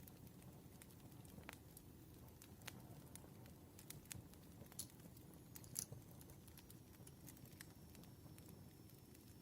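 Campfire crackling faintly: irregular sharp pops and snaps over a low rumble, with a louder pop a little before six seconds in.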